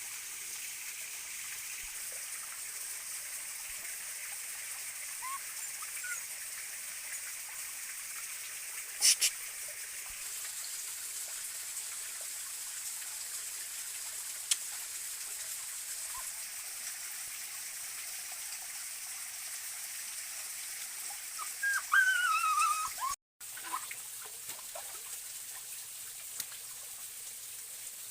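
Stream water running steadily over rocks. A sharp click comes about a third of the way in, and a few brief high chirping squeaks come near the end.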